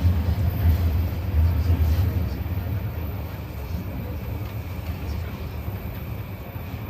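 Running noise inside a JR E235-1000 series motor car with a Mitsubishi full-SiC MOSFET VVVF inverter: a low rumble of wheels on track that grows steadily quieter as the train slows for the next station.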